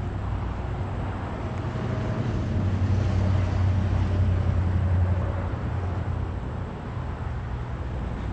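Low engine rumble that swells to a peak about four seconds in and then eases off, as of a motor vehicle passing, with wind buffeting the microphone.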